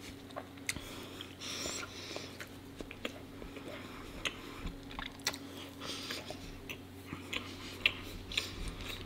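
Close-miked chewing of raw honeycomb: scattered wet, sticky clicks and smacks of the mouth.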